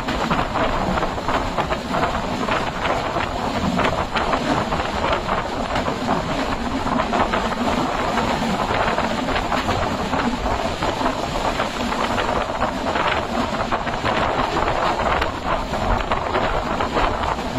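Moving passenger train: a steady rushing rumble with dense rattling and clicking of wheels on the track, even in level throughout.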